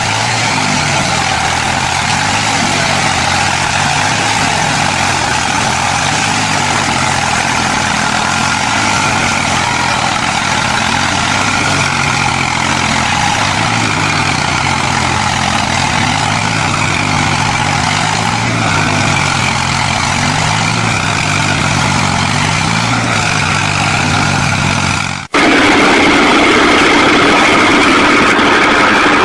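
A heavy engine, most likely a tractor's, runs steadily with its pitch wavering slightly. About 25 seconds in it cuts abruptly to a different engine running with a higher, steadier tone.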